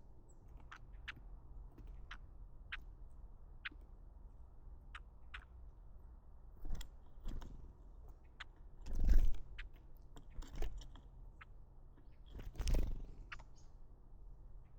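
Small birds (red-billed leiothrixes and varied tits) heard at close range: scattered short, sharp ticks, with a few louder dull thumps in between, the loudest about nine seconds in.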